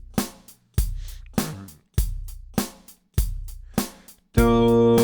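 Backing-track music: a steady drum-machine beat, a kick drum about every 0.6 s with lighter hits between, over low bass notes; a sustained keyboard chord comes in about four seconds in.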